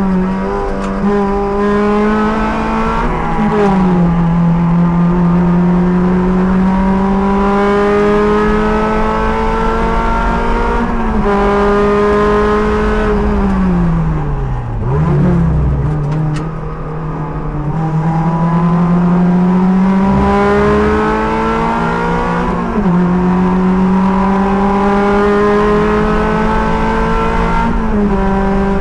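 Race car engine at full throttle on track, heard from the cockpit. Its pitch climbs steadily under acceleration and drops sharply at each gear change, a few times in all. About midway the pitch sinks more slowly as the car slows for a corner, then climbs again.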